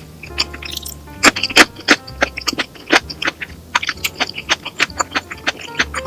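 A quick, irregular run of sharp clicks and taps, several a second, over faint background music.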